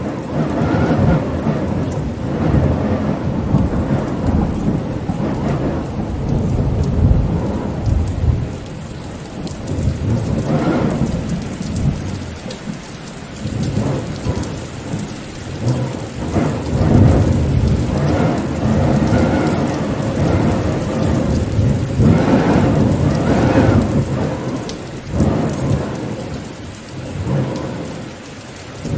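Rain falling steadily under a low rumble that swells and fades every few seconds.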